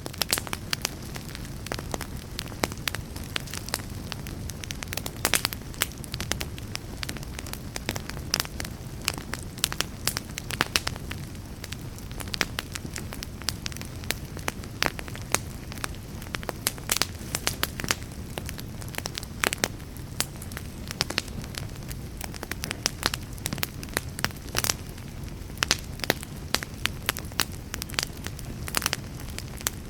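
Wood burning in a fireplace: logs crackling and popping in frequent, irregular sharp snaps over the steady low rumble of the flames.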